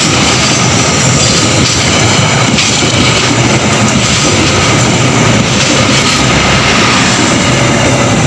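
Passenger train's stainless-steel coaches passing close by: a loud, steady rush and rumble of wheels on the rails.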